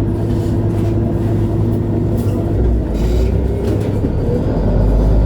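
Diesel engine of a MAN A23 Lion's City G articulated city bus running while the bus drives, a steady hum. About halfway through the pitch climbs and a deeper rumble comes in as the engine pulls harder.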